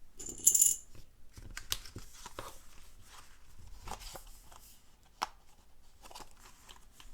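A short metallic clink with a high ring near the start, then light clicks, taps and faint rustling as stacked cardstock pages are shifted and lined up.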